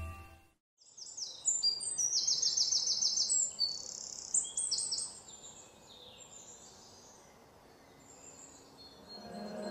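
Small birds chirping in quick, high, repeated notes for about four seconds, then dying away into near silence.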